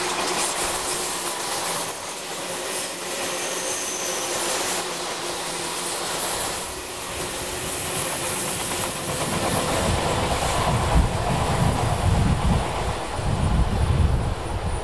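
Electric commuter train with a stainless-steel body running past at speed, wheels clacking in a steady rhythm over the rail joints. As the train clears, wind buffets the microphone, about two-thirds of the way in.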